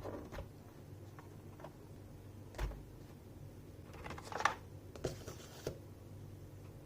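Scattered clicks and knocks from objects being handled, including one dull thump about two and a half seconds in, over a steady low hum.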